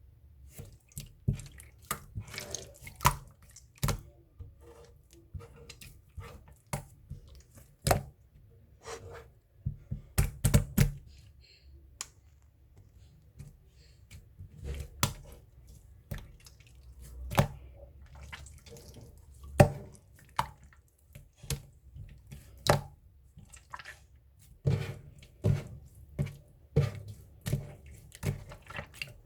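Slime being squeezed and poked by hand, making irregular wet clicks and pops, about one to three a second.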